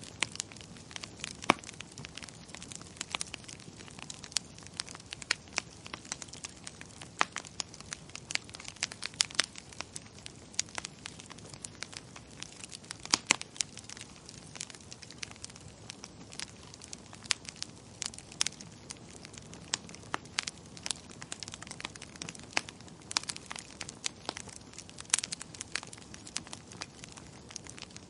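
Wood fire crackling in a fireplace: a steady low hiss with frequent irregular sharp pops and snaps.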